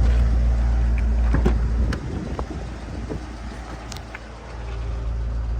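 Dodge Challenger SRT8's 392 Hemi V8 idling as a deep, steady rumble. It is loud at first, drops sharply to much quieter about two seconds in, and swells back up near the end, with a few short clicks and knocks along the way.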